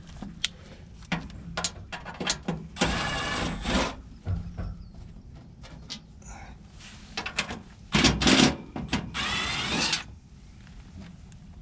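A battery power driver backing out the screws of a heat pump outdoor unit's access panel: two short runs of the motor, each about a second, rising in pitch. Clicks and knocks come between them.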